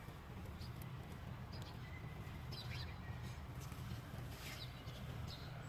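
Small birds chirping, with short high calls coming every second or so over a steady low background rumble.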